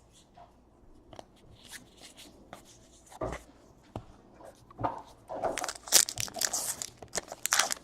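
Faint handling clicks, then from about five seconds in a louder stretch of crinkling and tearing as a trading-card pack wrapper is ripped open.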